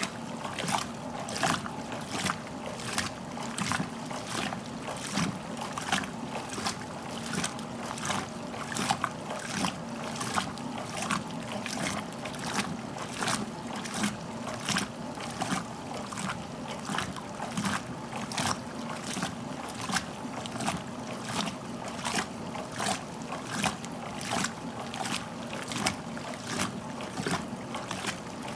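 1969 Westinghouse LAJ 535A3 washing machine agitating: its ramp action agitator throws the water about, splashing in a steady rhythm with each stroke, over the low hum of the motor.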